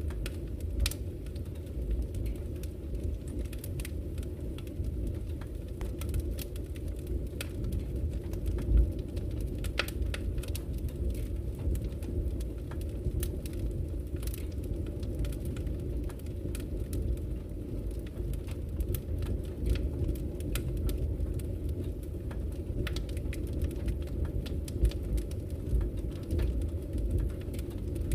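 Wood fire burning in a fireplace: irregular crackles and occasional sharper pops over a steady low rumble.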